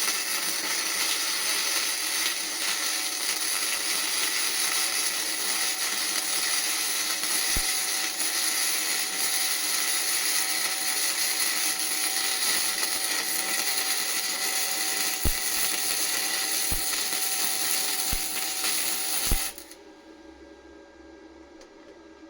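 Gasless flux-core wire welder arc crackling and hissing steadily, with a few sharp pops, stopping abruptly a few seconds before the end and leaving a quieter hum.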